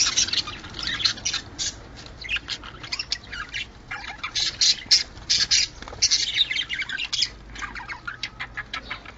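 Budgerigars chattering: a dense, rapid run of overlapping chirps, warbles and squawks, the kind of excited chatter played to budgies to bring them into breeding condition.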